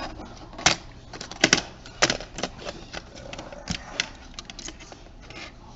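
Irregular sharp clicks and light taps of small plastic and metal camcorder parts being handled during disassembly, a few louder clicks in the first two seconds.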